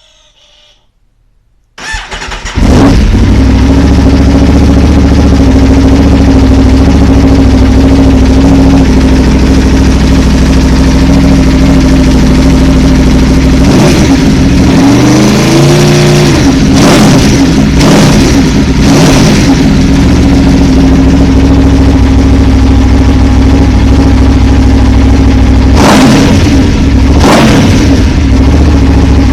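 Aprilia RSV4's V4 engine, breathing through a Delkevic slip-on silencer, started: a brief whir of the starter about two seconds in, then it catches and idles loudly. About halfway it is revved up and back down once, and several short throttle blips follow later.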